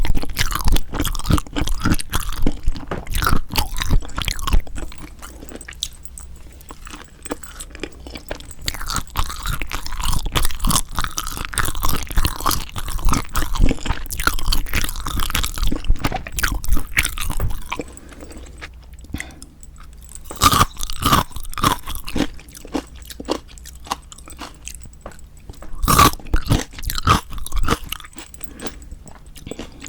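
Close-miked ASMR chewing and crunching while eating yangnyeom saeujang, raw shrimp marinated in spicy seasoning. The chewing goes in bursts, easing off about six seconds in and again around eighteen seconds, then picking up with loud crunching bites.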